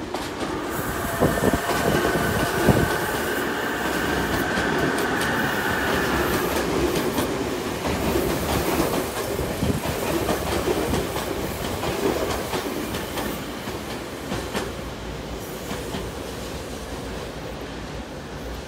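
Tobu 100 series "Spacia" electric limited express train passing close by, its wheels clattering over the rail joints, with a steady whine in the first several seconds. The sound fades as the train draws away near the end.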